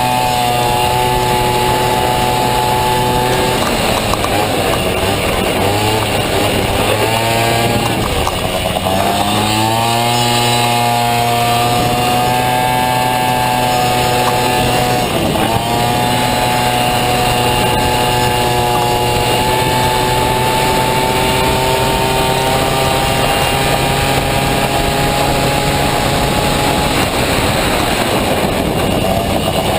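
Two-stroke Honda Dio scooter engine in a Motocompo, running at high revs under full throttle. Its note drops sharply and climbs back several times as the throttle is eased for corners and opened again.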